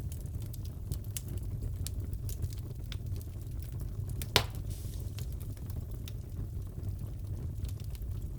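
Wood fire crackling in a fireplace: a steady low rumble of the flames with scattered small crackles and one loud pop about four and a half seconds in.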